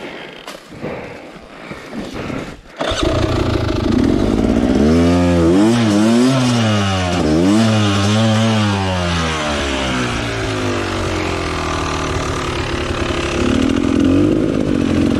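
A Beta enduro motorcycle engine fires up about three seconds in after a few knocks, is revved up and down several times, then settles to a steady idle.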